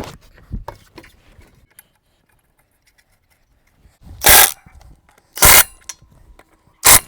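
Impact wrench fired in three short bursts a little over a second apart, tightening the wheel's lug bolts as the tire goes back on. A few light clicks come before them.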